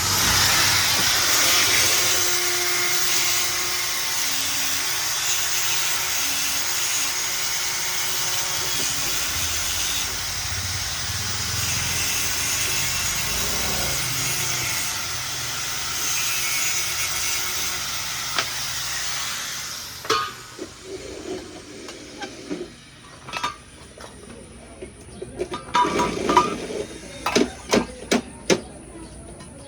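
A power tool running with a steady, loud hissing noise, which cuts off about twenty seconds in. Scattered sharp taps and clicks follow.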